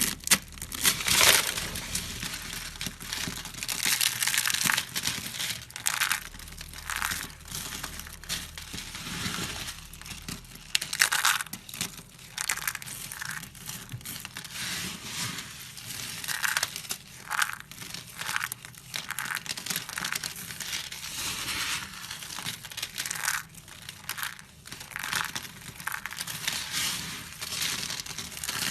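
A knife cutting and scraping into a bar of soap: a run of crisp, crunching strokes at an uneven pace, some louder than others.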